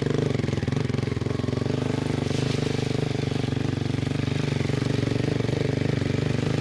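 Polaris 500 quad bike engine running steadily at constant speed, with an even rapid pulsing beat and no revving.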